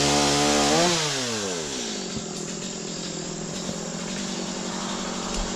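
Chainsaw engine running at high revs, then the revs fall away about a second in and it keeps running at a lower speed.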